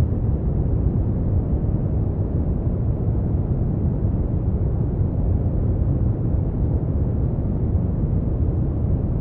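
Brown noise: a steady, deep rumbling hiss, strongest in the bass and fading out toward the highs, with no changes or events.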